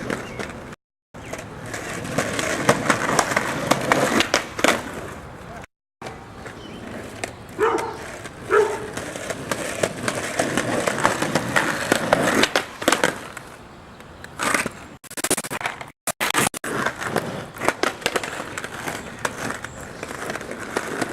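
Skateboard wheels rolling on pavement, with several sharp clacks of the board striking the ground.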